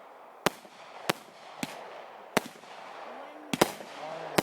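Fireworks going off: a run of sharp bangs, about seven, irregularly spaced, two of them in quick succession past the middle.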